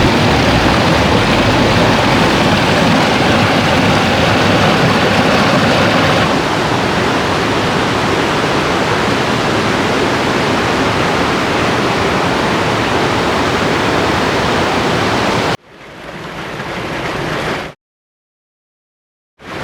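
Loud, steady rushing noise with a deep rumble. It cuts off suddenly about three-quarters of the way through, then comes back twice in short fading snatches with a silent gap between them.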